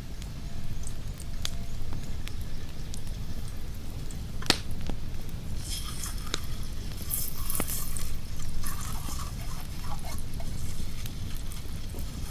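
Cooking over a campfire: a few sharp crackles and a stretch of high hissing over a steady low rumble.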